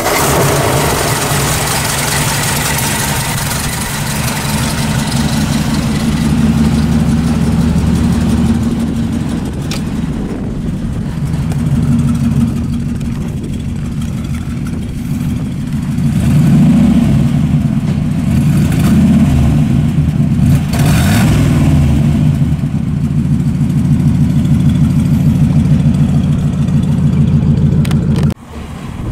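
1954 Ford Mainline's V8 engine starting and idling steadily. It is revved briefly a few times about halfway through, and the sound cuts off suddenly near the end.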